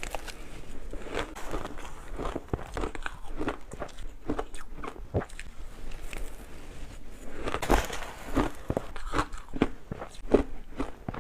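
A person biting and chewing shaved ice close to the microphone: irregular crisp crunches, loudest in a quick cluster about eight seconds in.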